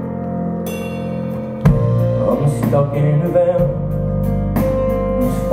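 Live band playing a song's instrumental intro, with sustained chords at first. The full band, drums and bass included, comes in suddenly a little under two seconds in.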